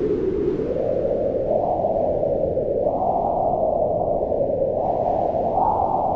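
Howling wind: a steady rush whose pitch swells up and down with the gusts, rising about three seconds in and again near the end.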